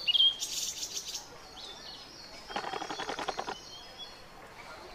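Birds chirping and whistling in the background, with a short high trill just after the start and a rapid rattling chatter of about a second near the middle.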